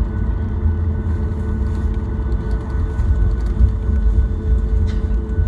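Boeing 737 cabin noise on the ground after landing: a steady low rumble from the airframe and running engines, with a thin steady whine above it.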